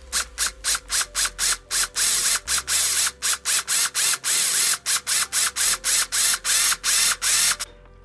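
A hand tool working in rapid short rasping strokes, about three to four a second, run together briefly twice, then stopping abruptly near the end.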